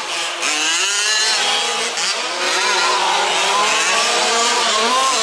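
Several 1/5-scale petrol RC off-road trucks racing together, their small two-stroke engines revving up and down with the throttle in overlapping, shifting pitches.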